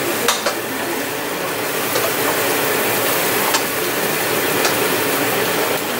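King crab pieces sizzling steadily in a frying pan, with a few sharp clicks of a metal spatula against the pan.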